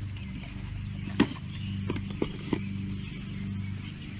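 A sharp knock, then three lighter clicks in quick succession, over a steady low hum.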